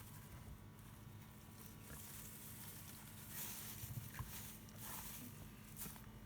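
Pet hamster making angry noises: a few short, faint huffs or hisses spaced over several seconds, with brief faint squeaks among them.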